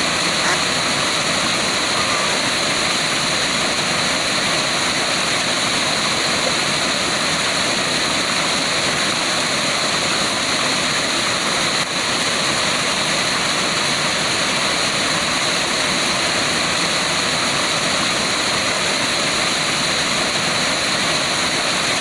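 Waterfall rushing with a steady, unbroken hiss of falling water.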